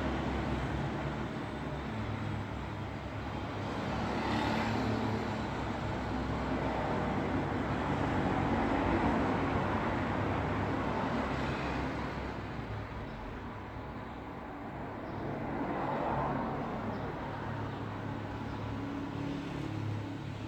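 Road traffic noise: vehicles passing, the noise swelling and fading every few seconds over a steady low engine hum.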